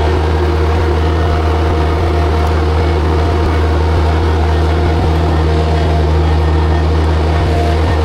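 Compact tractor's diesel engine running steadily at working speed, a constant low drone with no change in revs.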